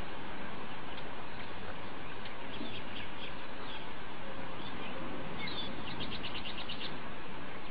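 Small birds chirping in short high notes over steady background noise, with a fast run of about ten chirps lasting about a second near the end.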